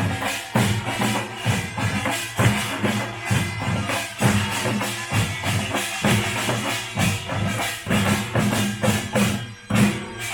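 Korean pungmul (nongak) folk percussion band playing: a dense, fast run of drum and metal strokes in a driving rhythm, over a sustained ringing tone.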